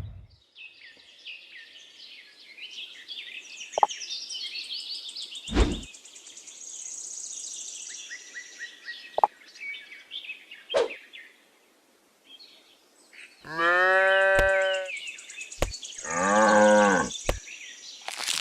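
A cow mooing twice near the end, two drawn-out calls about a second each, after a stretch of high, fast chirping that sounds like small birds.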